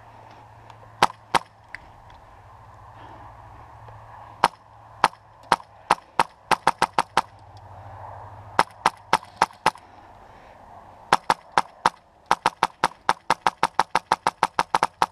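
Airsoft gun firing close to the microphone in quick single shots: a few spaced shots, then bursts of rapid trigger pulls, ending in a fast even string of about six shots a second.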